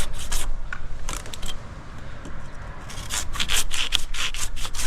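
Leafy maple branches scraping and rustling as a limb is hauled over on a rope, in a run of quick, rough, irregular strokes that grows busier after about three seconds.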